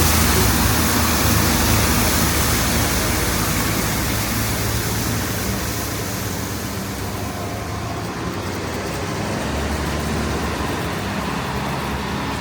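Steady roar of city street traffic mixed with strong wind buffeting the microphone, loudest at first and easing gradually over several seconds.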